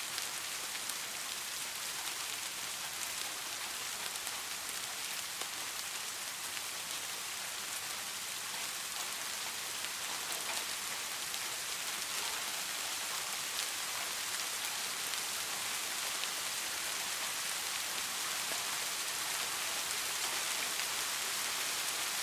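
Steady rain falling and pattering on a surface, an even high hiss with many small drop ticks, growing slightly louder toward the end.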